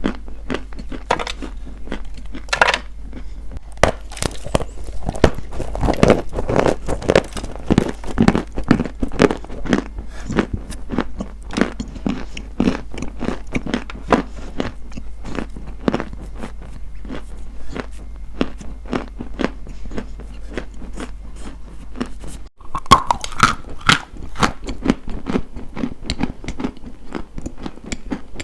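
Close-miked biting and chewing of something crunchy: a dense, continuous run of crackly crunches, broken by a brief gap about 22 seconds in before the crunching resumes.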